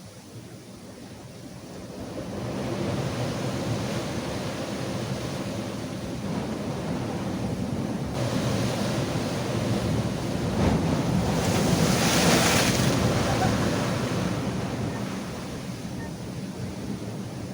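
Rough sea surf washing and breaking on a rocky shore, building up to a big surge about two-thirds of the way through and then easing off, with wind buffeting the microphone.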